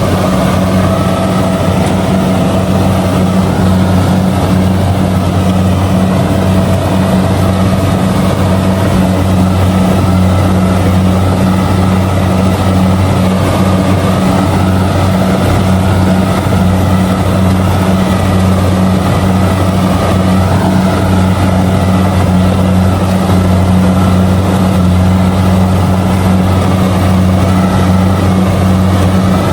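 Kubota DC70G combine harvester's diesel engine running steadily at working speed while harvesting rice, a constant low hum with a broad mechanical whirr above it.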